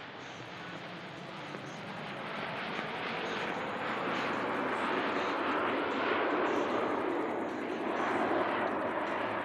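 A fixed-wing aircraft's engine noise, a broad rushing drone that grows steadily louder as the plane approaches and stays loud through the last few seconds.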